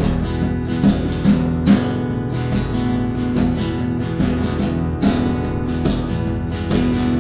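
Acoustic guitars strumming a steady rhythmic groove in an instrumental passage of an acoustic indie/surf rock song, without vocals.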